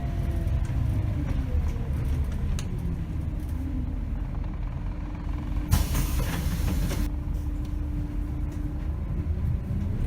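Scania K270 diesel bus running, its drivetrain whine falling in pitch as it slows, then holding steady. About six seconds in there is a sharp hiss of air lasting just over a second. Near the end the whine rises again as the bus pulls away.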